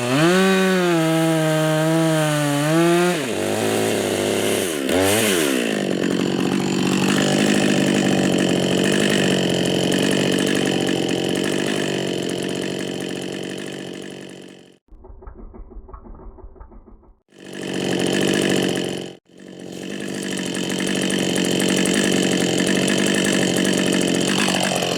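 Husqvarna 555 chainsaw cutting wood at full throttle, its engine pitch dipping and recovering as the chain loads in the cut. In the middle it drops to idle for a couple of seconds, revs up and cuts again, and near the end it is shut off hot.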